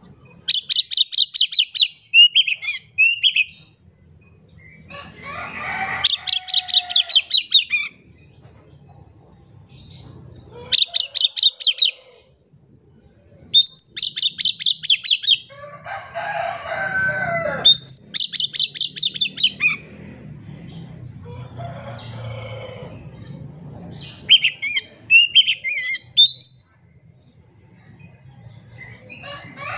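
Oriental magpie-robin (kacer) singing vigorously: bursts of fast, rattling runs of high repeated notes, each a second or two long, come again and again, with lower, more varied phrases between some of them.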